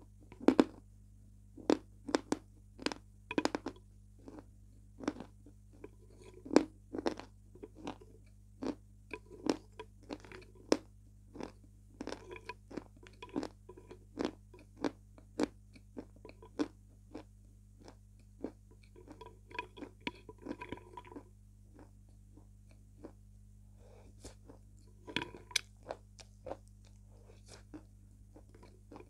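Close-up crunching and chewing of milk-soaked chunks of Slavyansk edible chalk, in sharp crunchy bites about once or twice a second. The crunching comes thicker about two-thirds of the way through and again near the end.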